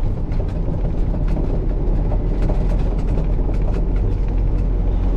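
Truck engine running with a steady low rumble, with irregular sharp ticks several times a second over it.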